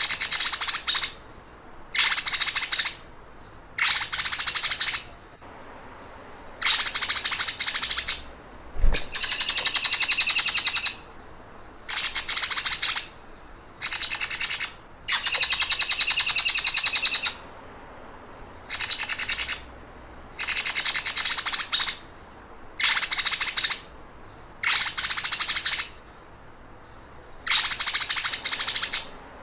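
Songbird repeating a rapid, rattling trill that keepers call the "sewing machine" (mesin jahit) sound. It comes in bursts of a second or two, about a dozen times, with short pauses between. A brief low thump is heard around a third of the way in.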